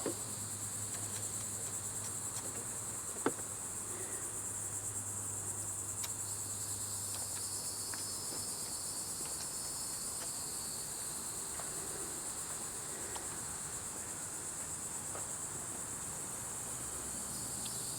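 Steady high-pitched buzzing of an insect chorus, continuous without a break, with a single sharp click about three seconds in.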